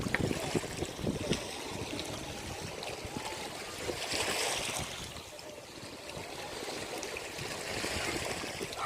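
Ocean surf washing onto a beach: a steady rush of water that swells about four seconds in and again near the end as waves break and run up the shore.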